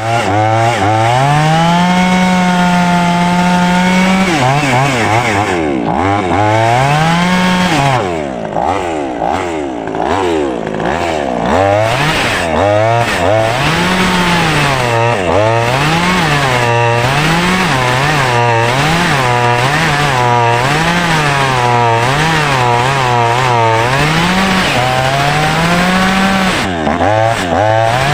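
Ogawa OG4812 mini two-stroke gasoline chainsaw cutting through a coconut tree trunk. The engine runs at a steady high rev for the first few seconds. It then dips and climbs again about once a second as the chain bites into the wood and clears, and returns to a steady high rev near the end.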